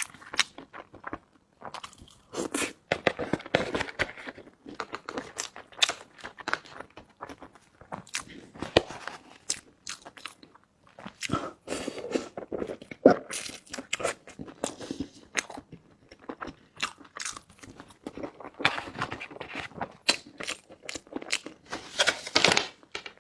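Close-miked eating of pan-fried buns (shengjian): repeated bites and chewing with crisp crunches, in an irregular run of short sounds.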